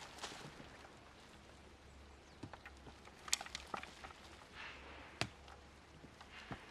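Scattered sharp knocks and taps, as of work on wood, irregular and unhurried, the loudest about five seconds in.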